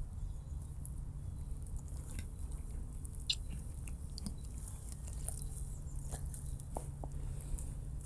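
An animal chewing: faint, irregular crunching clicks over a steady low hum.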